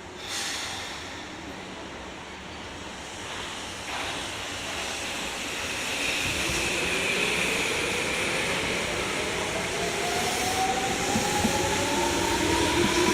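Tobu 9000-series electric train pulling away from a station. There is a short hiss of air just after the start. From about halfway, a motor whine rises steadily in pitch as the train gathers speed, over a growing rumble of wheels on rail.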